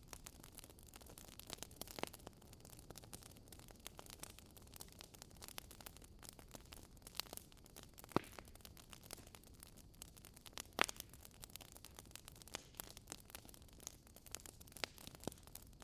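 Wood fire burning in a fireplace, crackling with irregular sharp pops over a low hiss; two louder pops at about eight and eleven seconds in.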